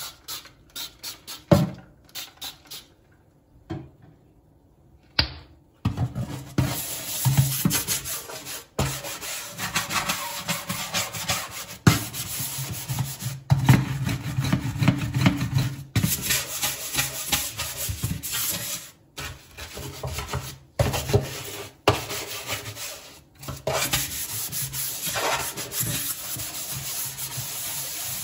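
Scrubbing of a kitchen surface during cleaning: a dense, steady rubbing that is broken by several abrupt cuts. A run of quick clicks comes at the start, followed by a short quieter gap.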